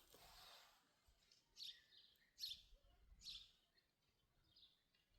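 Faint chirps of a small bird: three short high calls about a second apart in the middle, then a fainter one, over near silence with a brief soft hiss at the start.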